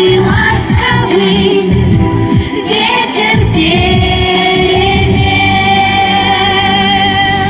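Song with sung vocals over instrumental backing. From about four seconds in, the voice holds one long note with vibrato.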